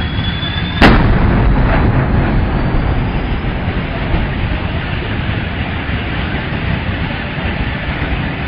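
A propane truck exploding: one sharp blast about a second in, preceded by a thin high tone, followed by a long low rumble.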